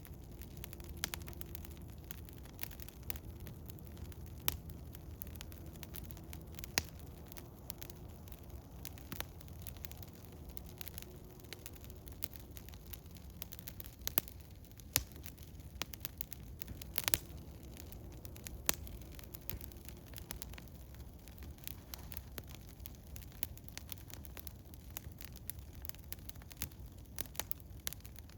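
Small wood fire of eastern hemlock crackling, with irregular sharp snaps and a few louder pops in the middle, over a steady low rumble.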